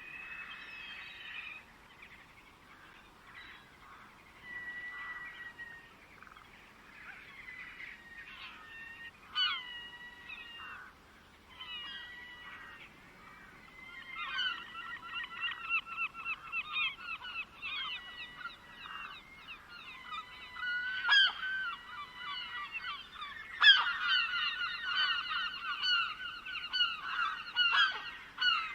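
A chorus of birds calling: scattered whistled notes and short glides at first, then from about halfway a dense run of rapid repeated calls from several birds at once, with a few sharp clicks.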